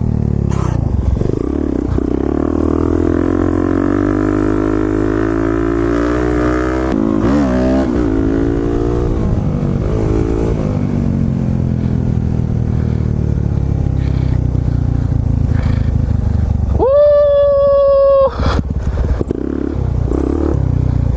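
Suzuki DR-Z400 supermoto's single-cylinder four-stroke engine held at steady throttle through a seat-standing wheelie. The revs rise and dip about seven seconds in and then ease off. About three-quarters of the way through, a loud, held high-pitched tone sounds for roughly a second.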